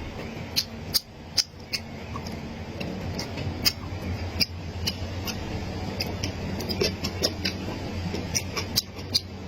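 Close-miked eating sounds: irregular sharp clicks, crunches and mouth smacks of someone chewing and biting food, over a low steady hum.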